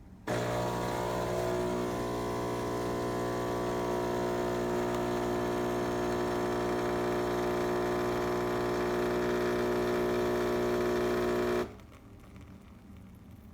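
Philips 3200 Series fully automatic espresso machine running with a steady buzzing hum. It starts abruptly, holds for about eleven seconds, and cuts off suddenly.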